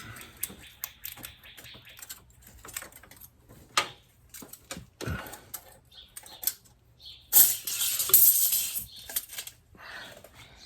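Light metallic clicks and jangles of a feeler gauge set being handled, its thin steel blades flipped through. A louder scraping rustle comes about seven and a half seconds in.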